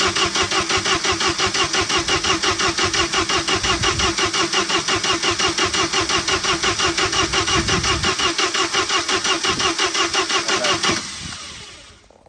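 Bobcat 732 skid steer's carbureted gasoline engine being cranked by its starter, with an even, rapid pulsing for about eleven seconds. It never catches or revs, then the starter stops and the engine spins down. It cranks but won't fire despite spark and fuel, which the owner puts down to a timing issue.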